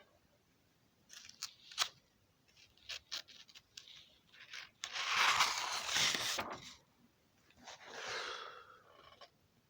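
Handling noise: a few scattered clicks, then two rustling scrapes, the longer one about five seconds in and a shorter one around eight seconds.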